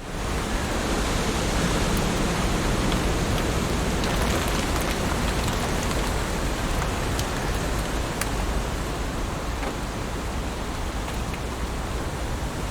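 Heavy rain falling steadily on leaves, a dense even hiss with scattered sharper drop ticks. It fades in at the very start.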